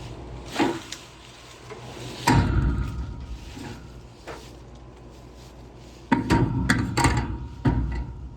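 Irregular knocks and clatter of hard equipment being handled: a single knock early, a louder one about two seconds in, then a quick run of knocks near the end, over a steady low rumble.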